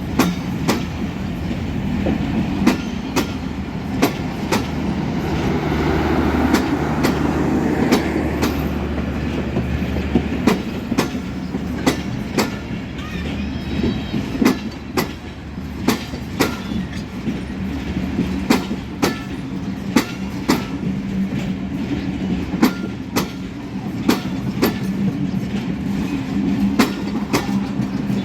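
Passenger train hauled by an EMD GT42AC diesel-electric locomotive passing close by, its wheels clacking over rail joints again and again. A low steady diesel drone sits under the rumble for about the first ten seconds, then fades.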